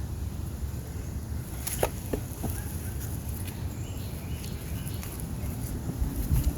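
Wind buffeting the microphone in a steady low rumble, with a few small knocks or clicks about two seconds in.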